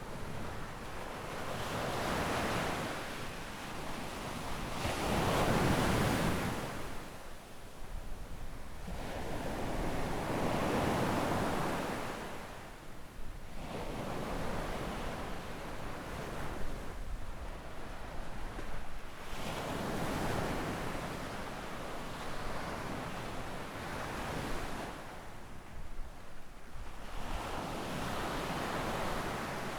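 Small ocean waves breaking and washing up a sandy beach, the surf swelling and fading every few seconds.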